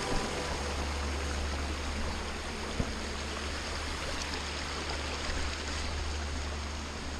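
Steady rush of river water flowing over rocks, with a couple of faint knocks, one near the start and one about three seconds in.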